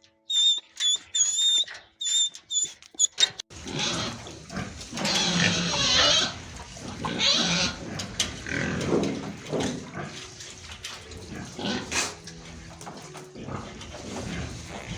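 Pigs grunting and snuffling in a long run of rough, uneven grunts, after a few short high squeaks in the first three seconds.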